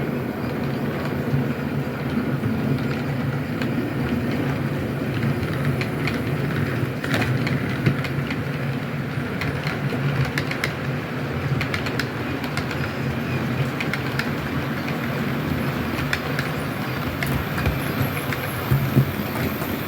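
Model railway train running along the track: a steady electric motor hum with scattered light clicks of the wheels on the rails.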